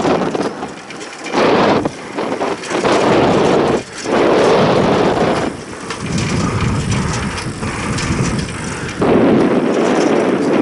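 Loud gusts of wind buffeting the microphone, rising and dropping off abruptly every second or two.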